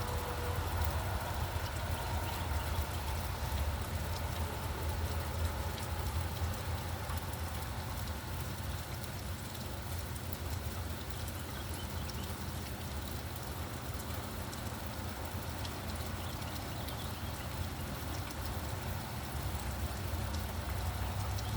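Steady rain falling, with fine pattering drops, over a continuous low rumble of road traffic.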